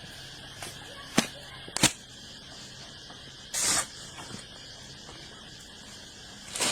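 A few sharp knocks, two in the first two seconds and one at the end, with a short hissing rustle in the middle, over a steady faint background.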